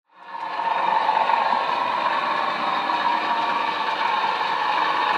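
A train running: a steady whir with clatter, fading in over the first second.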